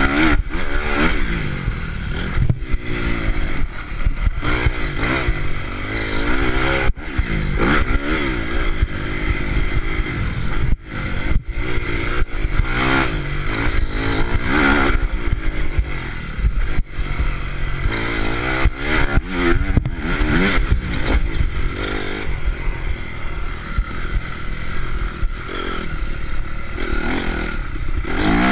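Honda CRF four-stroke motocross bike engine revving up and dropping back over and over as it is ridden, the pitch climbing and falling every second or two over a steady low rumble.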